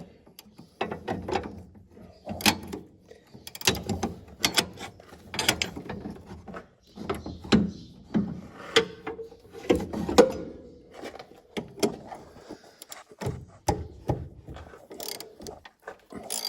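Ratcheting gear wrench clicking in short, irregular strokes as a bolt is worked loose.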